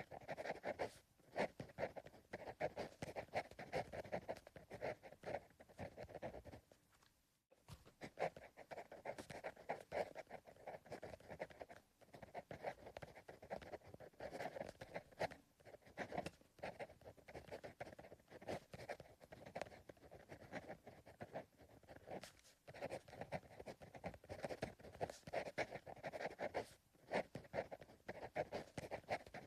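Pencil writing on paper: a continuous run of soft, irregular scratching strokes, pausing briefly about seven seconds in.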